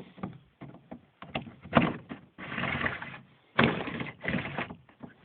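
Adjustable footrest on a Mad River Synergy 12 fishing kayak being slid along its track and set in place: a series of plastic clicks and knocks with two short sliding rasps.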